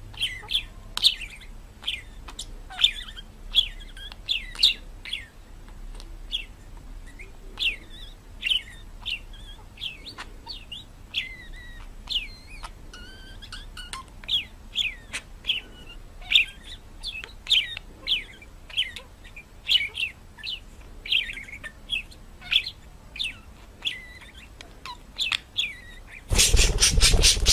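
Birds chirping: a long run of short, sharp chirps that sweep down in pitch, coming several a second at times, with faint clicks between them. Near the end a loud burst of noise cuts in.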